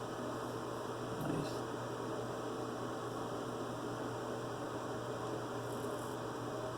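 Steady electrical hum over a constant hiss, with one faint brief sound about a second in.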